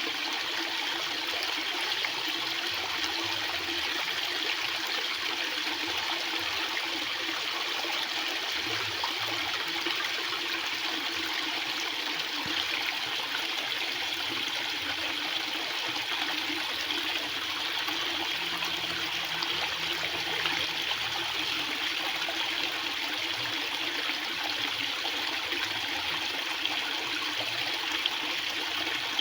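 Water flowing very fast, a steady, even sound that holds the same level throughout.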